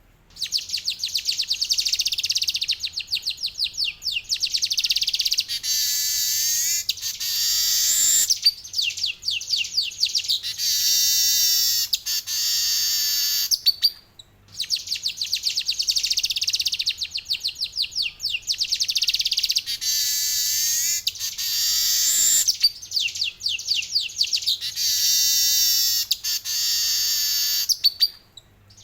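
Male manyar (weaver bird) singing its long rolling song: rapid high trills with a few descending warbled notes, in two long phrases with a brief pause about halfway through.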